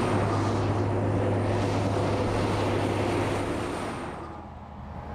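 Steady low engine drone with a broad rushing noise, fading away about four seconds in.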